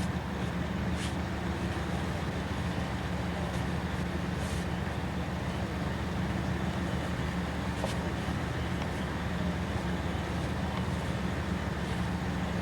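Snowblower's gasoline engine running steadily at constant speed, a low even drone with no change in pitch.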